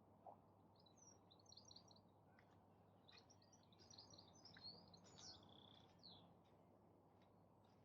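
Faint songbird chirps and twitters in quick clusters, busiest from about three to six seconds in, over a steady low outdoor hiss.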